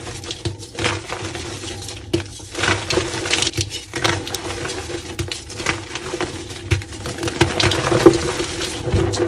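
Soft reformed gym chalk being crushed and crumbled, giving a run of irregular soft crunches and crackles.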